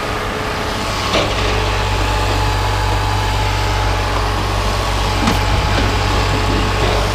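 Truck engine running with a steady low hum, with a light knock about a second in.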